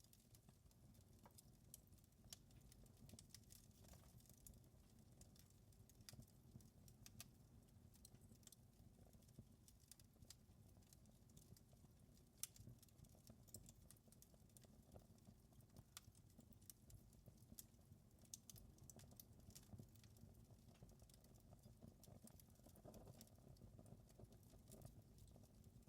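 Fireplace fire crackling faintly: irregular small pops and snaps over a low steady rumble.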